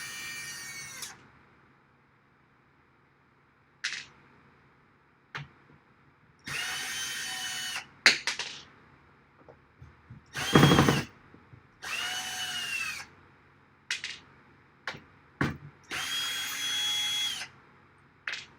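Cordless drill-driver run in about five short bursts, each whine rising as the motor spins up, holding, then falling as it stops, backing screws out of the rack case's rails. Sharp clicks and knocks fall in the gaps between bursts.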